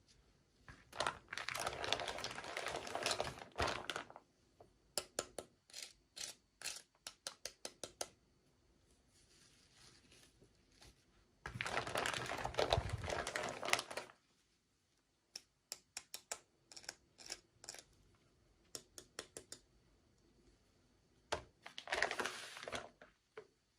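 Plastic packaging crinkling and tearing in three bursts, with runs of small sharp clicks, about four a second, in between.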